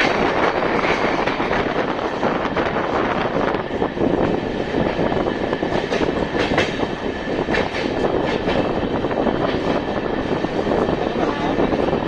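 Express train running at speed, heard from a passenger carriage at the window: a steady loud rush of rolling noise, with a few sharp clicks from the wheels over rail joints.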